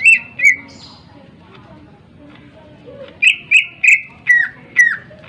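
Greater green leafbird (cucak ijo) calling with loud, sharp whistled notes, each dropping slightly in pitch. There are two at the start, then a quick run of about six from around three seconds in.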